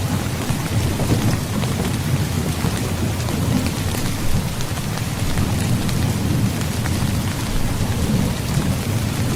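Steady heavy rain with many scattered drop ticks, over a continuous low rumble of thunder.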